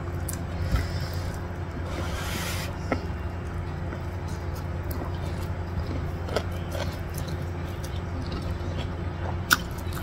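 Close-miked eating sounds: soft chewing and mouth clicks as a mouthful of rice and stir-fried pak choy is eaten by hand, over a steady low hum. A short soft hiss comes about two seconds in and a sharp click near the end.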